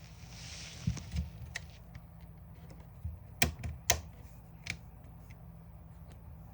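DeWalt DCD780 cordless drill parts clicking and knocking as they are handled and fitted back into the housing by hand: scattered clicks and a few dull knocks, the two sharpest clicks close together a little over three and a half seconds in.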